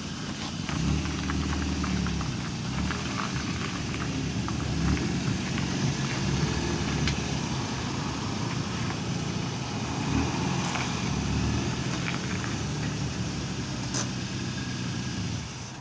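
A motor vehicle's engine running close by, its low pitch wavering, with scattered light clicks and knocks.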